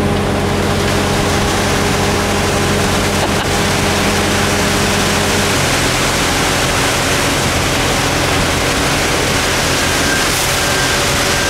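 Diesel construction machinery running steadily during a concrete pour, under a loud even rushing noise. The engine note changes about five and a half seconds in.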